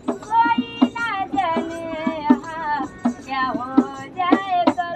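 A girl singing a Hindi song unaccompanied, her voice gliding between long held notes, with sharp taps or claps keeping the beat about twice a second.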